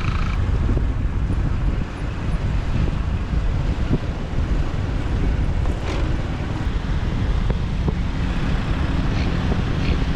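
Motorbike on the move in traffic: a steady low rumble of engine and road with wind buffeting the microphone.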